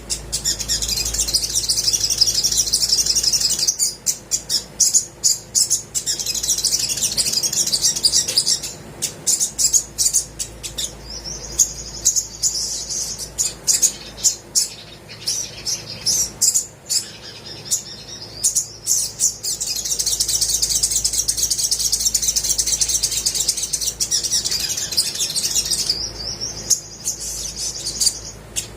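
Olive-backed sunbird singing vigorously: long, rapid, high-pitched trills broken up by runs of sharp, quick chips, over and over.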